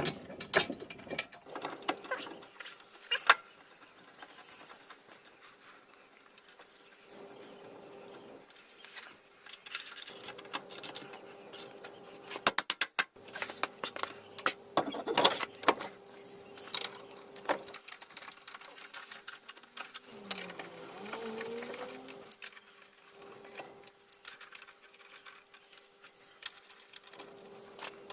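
Metal clinks, clicks and knocks of hand tools and brake parts being handled during a brake pad change, coming irregularly, with a faint steady hum underneath.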